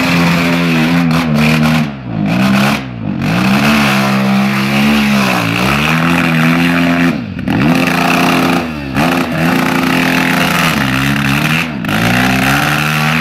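KTM enduro motorcycle engine revved hard again and again, the revs held high and then falling away every second or two, as the bike splashes through a shallow river and its rear wheel spins in the mud of the bank.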